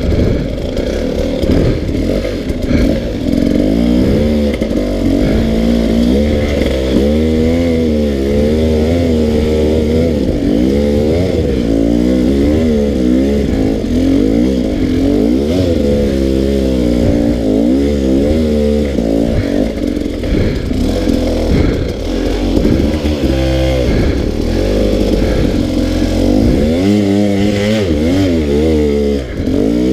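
Dirt bike engine revving up and down over and over, the pitch rising and falling every second or two as the rider works the throttle climbing a steep trail.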